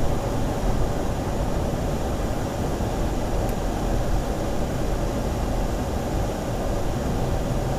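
Steady rumble of a car driving, heard from inside the cabin: even road and tyre noise with engine hum.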